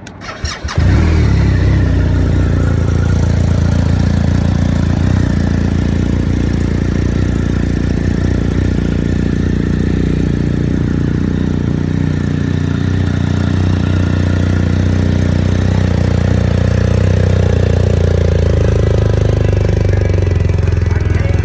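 BMW R 1250 RT's 1254 cc flat-twin (boxer) engine cranked by the starter and catching within the first second, then idling steadily.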